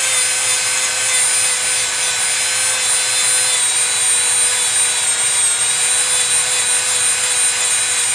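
Dremel rotary tool running with a steady whine, its bit grinding old paint off a composition doll arm. The pitch sags slightly now and then as the tool is pressed into the work.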